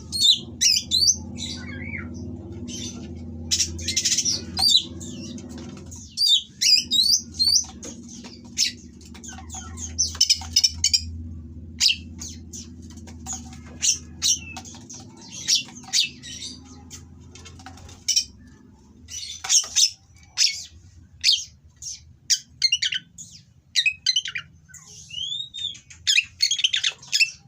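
Oriental magpie-robin singing a fast stream of short, harsh notes and sharp whistled glides, with a steady low hum underneath that stops about two-thirds of the way through.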